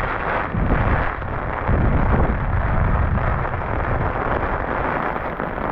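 Storm wind buffeting the microphone together with heavy rain: a loud, dense rushing noise that rises and falls in gusts.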